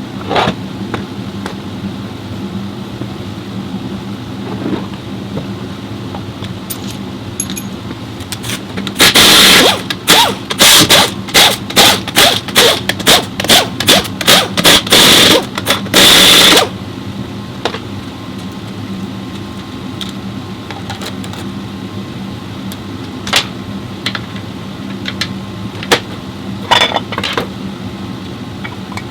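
Pneumatic air tool in a workshop fired in a string of short, loud bursts, about a dozen over some seven seconds, over a steady hum, with a few scattered clicks and knocks of tools.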